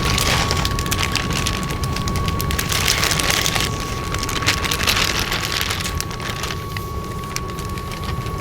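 Rain falling steadily, with many small crackling drop hits over a low rumble and a faint steady high tone.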